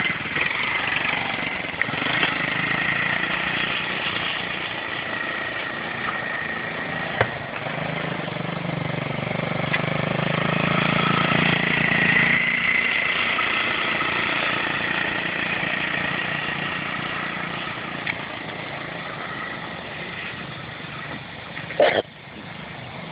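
Dirt bike engine running as it is ridden, growing louder toward the middle and fading again as it moves away. A sharp knock near the end.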